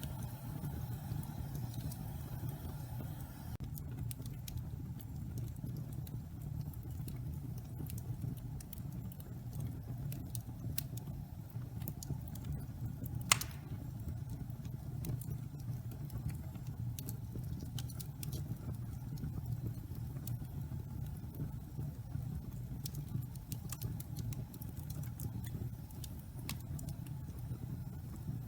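Wood fire burning damp pine logs in a fireplace: a steady low rumble with scattered crackles, and one loud pop about halfway through.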